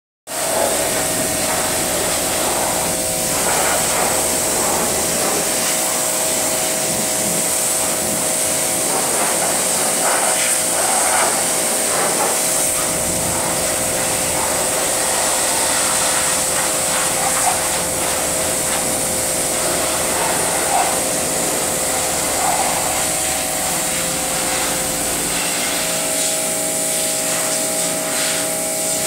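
A motor-driven machine running steadily with a high hiss and a constant whine, with occasional short knocks and rubbing sounds over it.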